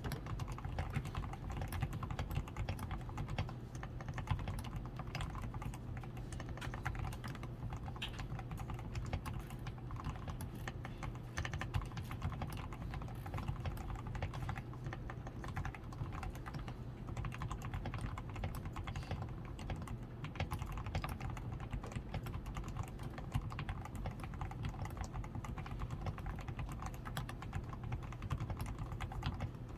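Continuous fast typing on a DAREU A87 Pro mechanical keyboard with fully lubed switches and stabilizers, tape-modded PCB, switch foam and XDA keycaps, giving a dense run of muted key clacks.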